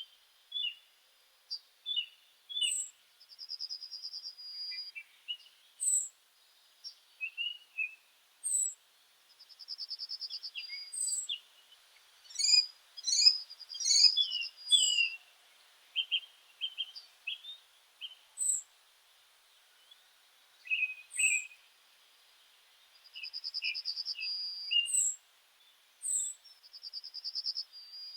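Several meadow songbirds calling and singing: scattered short chirps, a brief fast trill that recurs several times, and a loudest run of sharp rapid notes near the middle.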